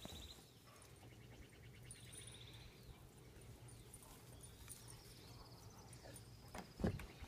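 Quiet outdoor ambience with a few faint, high, trilling bird calls, and one short thump near the end.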